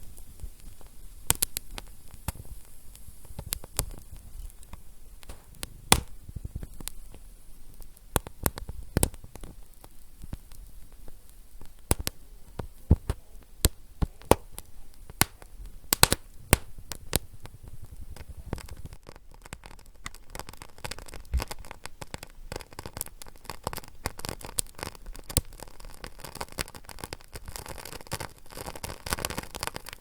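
Wood fire crackling: irregular sharp pops and snaps over a soft hiss, thickening into a denser crackle over the last third.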